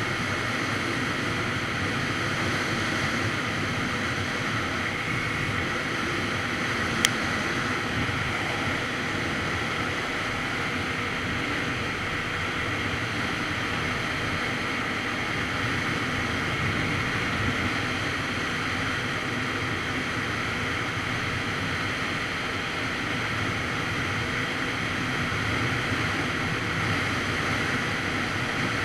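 Steady wind rush buffeting a phone microphone on a Kawasaki Z900RS Cafe motorcycle at riding speed, with a single sharp click about seven seconds in.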